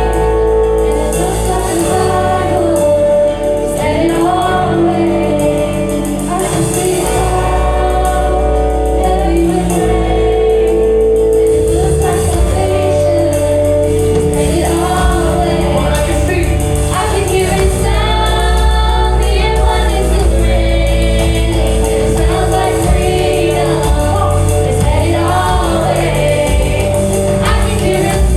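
Gospel praise music: voices singing together over a live band with sustained keyboard chords and steady bass.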